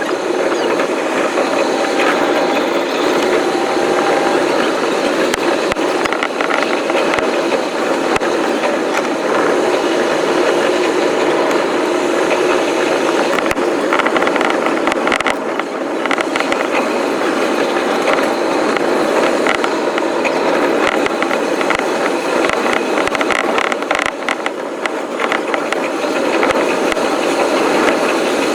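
Running noise of a JR East Shonan-Shinjuku Line electric commuter train heard from the front car: a steady rumble with a rapid clatter of wheel and rail clicks, sped up fivefold.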